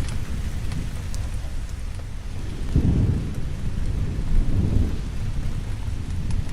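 Steady rain with low rolling thunder rumbling underneath, swelling about three seconds in and again a little later. A few faint sharp ticks sit on top of the rain.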